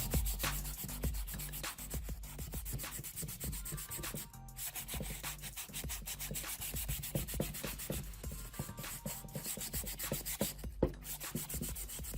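Rapid back-and-forth hand sanding strokes on rusty iron, breaking off briefly twice, over faint background music.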